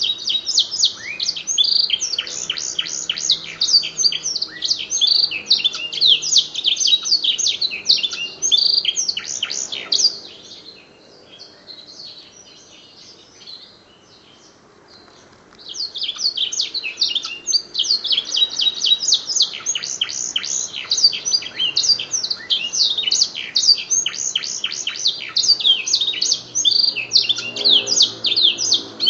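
Domestic canary singing a fast, high song of chirps and trills filled in with blackthroat song. It breaks off about ten seconds in and starts again some five seconds later.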